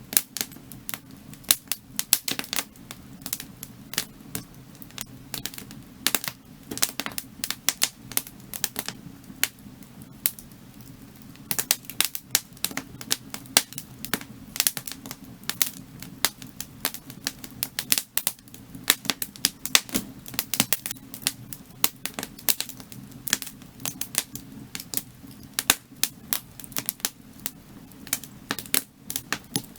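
Wood fire crackling, with irregular sharp pops and snaps from the burning logs over a steady low hum. The popping thins out briefly about a third of the way in, then comes thick again.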